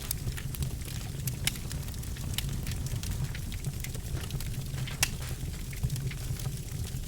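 Birchwood fire crackling in a fireplace: irregular sharp snaps and pops over a steady low rumble of the flames, with a louder pop about five seconds in.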